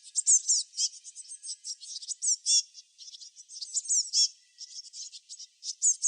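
Small songbirds chirping in a dense, busy chorus: many quick high-pitched notes, several sweeping down in pitch.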